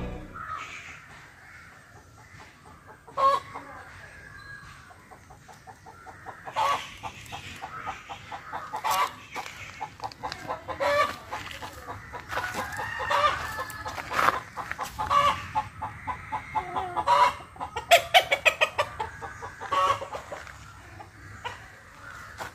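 Birds calling in runs of short, quick repeated notes. The calls are sparse at first and come thickly from about six seconds in until near the end.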